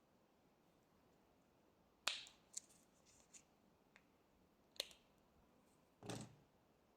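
A few scattered sharp clicks and light clinks against a near-silent background, about six in all, the last one, about six seconds in, a little longer and fuller.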